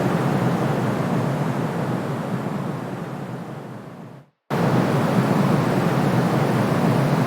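Steady white noise, a soft, deep hiss filtered of its lowest rumble, played for soothing a baby. It fades down over a couple of seconds, drops to silence for a moment about four seconds in, then snaps back at full level as the noise loop restarts.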